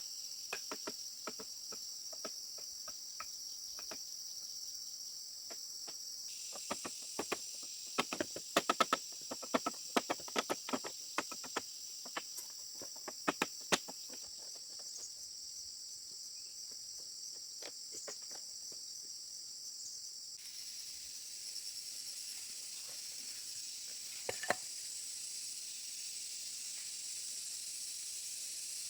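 Steady high-pitched chorus of insects such as crickets, with a run of sharp light clicks or taps through roughly the first half and a couple more about three-quarters of the way in.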